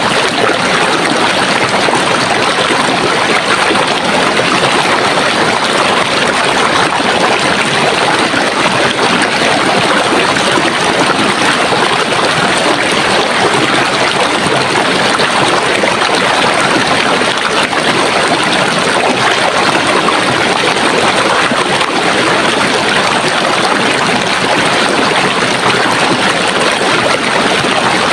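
Running water from a stream flowing and gurgling in a steady, even rush.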